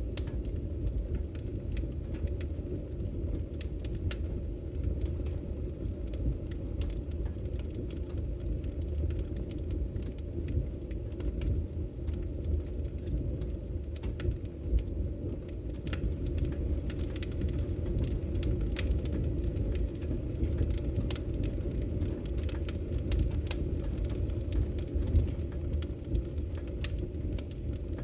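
Wood fire burning in a fireplace: a steady low rumble of the flames with frequent sharp crackles and pops, which come thicker in the second half.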